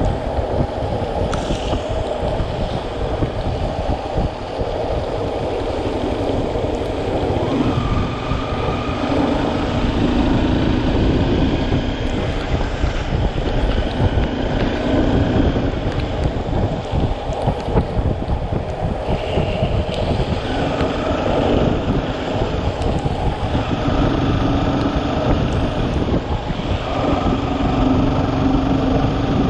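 Motorcycle riding along the road with wind buffeting the microphone; the engine note comes and goes and shifts in pitch now and then.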